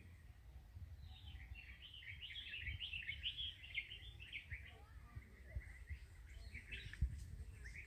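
Small birds chirping in a rapid, busy chatter of short high notes, densest from about a second in until about six seconds, with a low rumble and a few soft knocks underneath.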